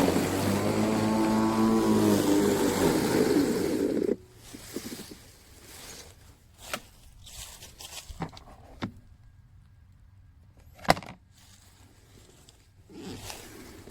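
Sun Joe 24V cordless reel mower's electric motor running with a shifting pitch, then shutting off abruptly about four seconds in. Faint clicks and knocks follow, with one sharp click near the end.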